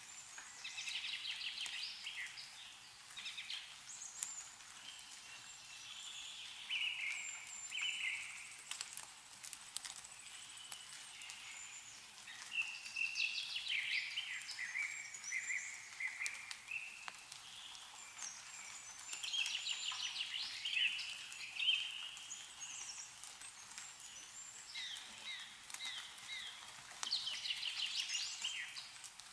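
Songbirds singing in short chirping phrases that come every few seconds, with a few faint clicks of melting snow dripping from the trees.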